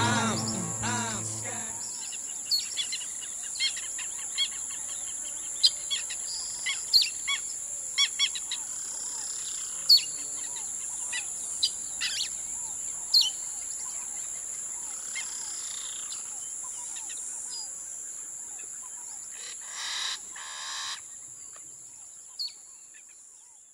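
The music fades out in the first two seconds, leaving birds chirping and calling, many short chirps spread through the rest, over a steady high-pitched hiss that fades away near the end.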